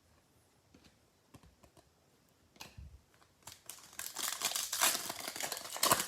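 Trading cards and pack wrappers handled by hand: a few light clicks, then a stretch of crinkling and rustling from about halfway through.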